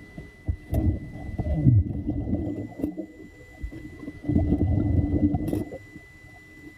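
Muffled water sloshing and rumbling in irregular surges, loudest twice, with a faint steady high whine underneath.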